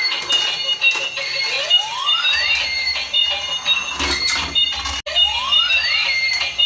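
Electronic toy sound effects: a looping high beeping tune with a rising whoop about every three and a half seconds, like a toy car's sound chip. It cuts out for a split second about five seconds in, then starts again.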